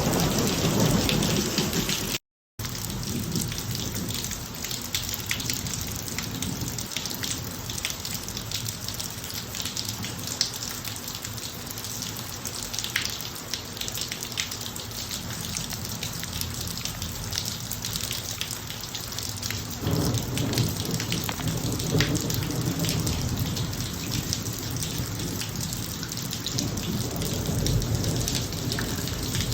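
Steady heavy rain pattering on a hard surface, with low rolls of thunder near the start and again from about two-thirds of the way through. The sound cuts out completely for a split second about two seconds in.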